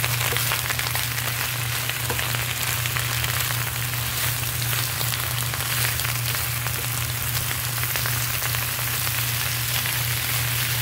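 Wild spinach leaves (amaranth and lamb's quarters) with garlic sizzling in hot oil in a frying pan while being stirred with a spatula: a steady crackling hiss. A steady low hum runs beneath.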